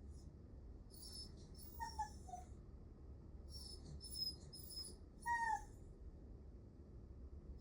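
Miniature dachshund whimpering in a few short, high-pitched whines, some falling in pitch: the plaintive whining of a dog begging for attention.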